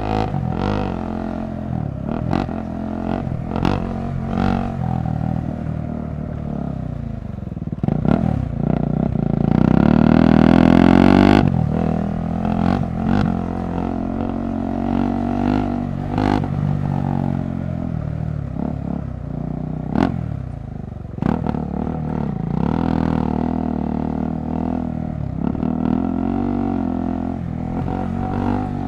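KTM 390 Adventure Rally's single-cylinder engine running under changing throttle on a rough trail, with frequent sharp knocks and rattles from the bike over the ground. About ten seconds in, the revs climb to their loudest, then drop off suddenly as the throttle closes.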